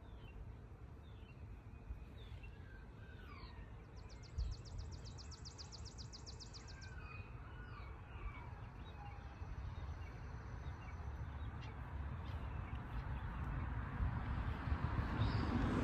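Wild birds chirping in short rising and falling notes. A rapid high trill of about twenty pulses lasts some three seconds, starting about four seconds in. Under them a low rumble grows louder toward the end.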